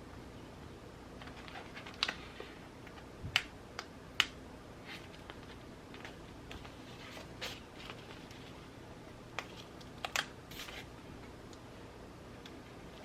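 Scattered small, sharp clicks and taps of stationery being handled and set down on a desk while journaling, loudest a couple of times in the first third and again near the end, over a steady faint hiss of rain.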